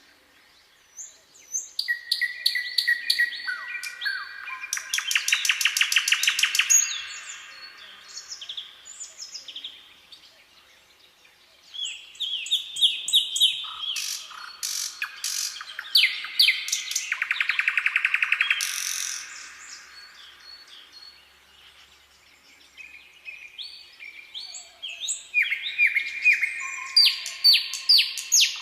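Songbirds singing in three bouts of quick, high notes and rapid trills, with quieter pauses between them.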